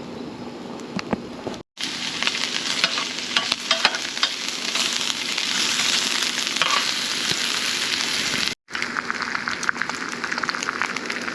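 Food frying in a pan, a steady sizzle with many small spattering pops, cut off abruptly twice by edits.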